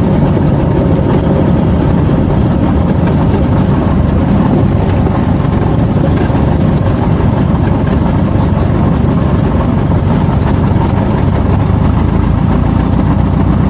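Light aircraft's piston engine and propeller running at a steady, even drone, with no change in power.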